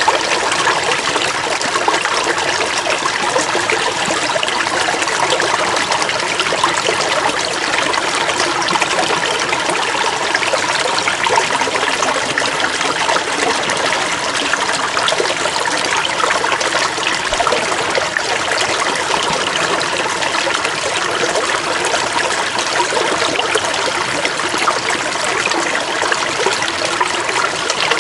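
Running water trickling and babbling steadily, a dense unbroken patter of small splashes like a stream or brook.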